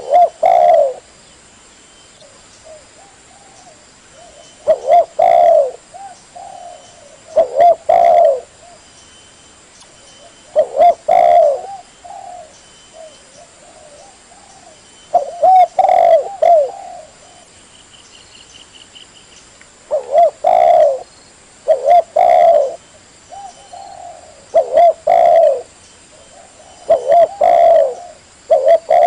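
Spotted dove cooing: short phrases of a few low, rounded coos repeated every two to three seconds.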